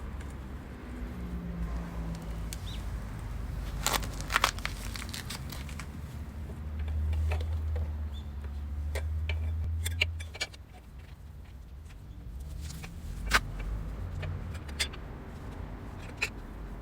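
Scattered sharp clicks and knocks of hand work on a motorcycle, over a low vehicle rumble that swells for a few seconds in the middle.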